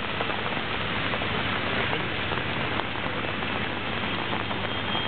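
Rain falling on a flooded street and pavement: a steady, even hiss with scattered drops.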